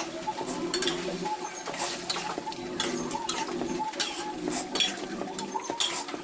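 Cooking utensil clinking and scraping against a pan, in irregular knocks as the food is stirred.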